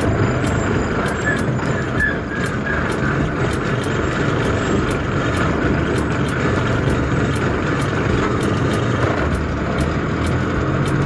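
Tata truck driving on the road, heard from inside the cab: a steady engine and road rumble, with repeated light clicking or rattling ticks throughout.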